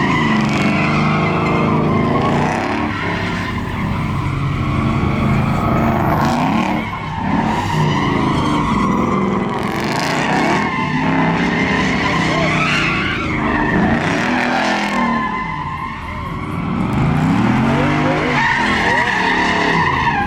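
Car engine revving hard, its pitch rising and falling again and again, with tyres squealing throughout as the vehicle spins on the pavement.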